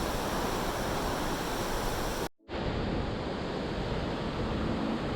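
Steady rush of a waterfall's falling water, cut off abruptly for a moment about two seconds in and coming back slightly duller.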